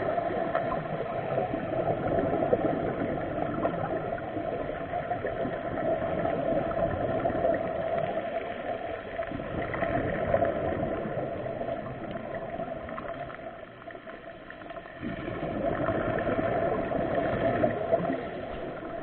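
Boat engine running at a steady drone, with water noise; it drops quieter for a moment about two-thirds of the way through before picking up again.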